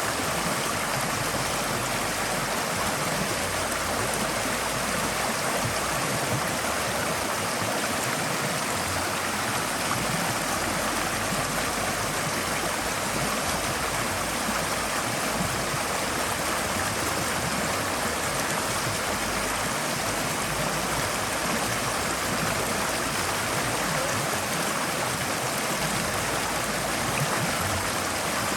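Forest stream flowing over rocks: a steady rush of water with gurgling.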